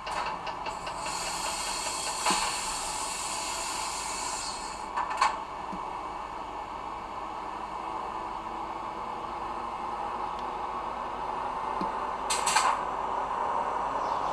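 DCC sound decoder in a model E626 electric locomotive: a few seconds of hissing air, like a brake or compressor blow-off, over a steady running hum, with a few sharp clicks.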